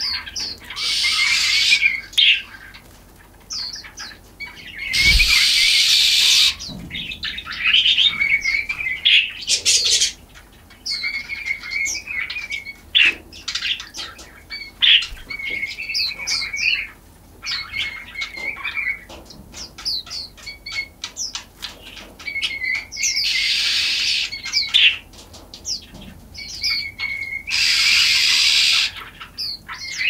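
Small songbirds chirping repeatedly in short, high calls, with a few bursts of about a second or two of wing-fluttering noise.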